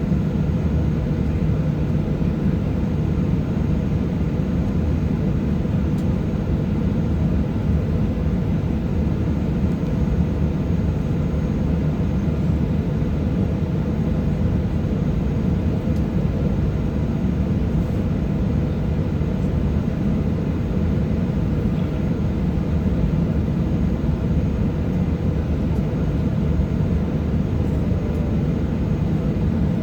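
Steady, unchanging noise inside the cabin of a Boeing 737-800 airliner in flight, mostly low in pitch, from the jet engines and rushing air.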